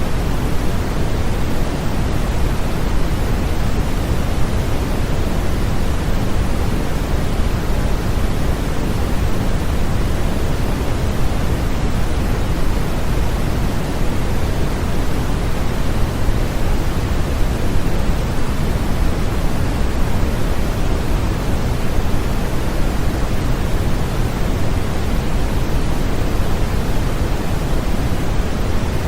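Steady, unbroken generated noise, an even hiss that is heavier in the low end than the high, like pink noise.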